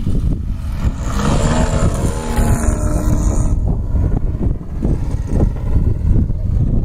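Engine and propeller of a radio-controlled Carden Edge model plane running, louder and higher for a couple of seconds starting about a second in, over wind rumbling on the microphone.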